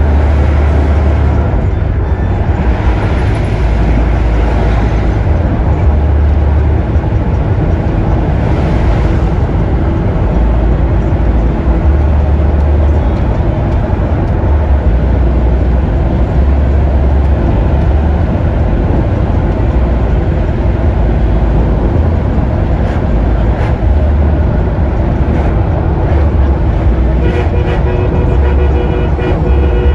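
Steady road and traffic noise with a heavy low rumble, as heard from a vehicle driving along the road; a vehicle horn sounds near the end.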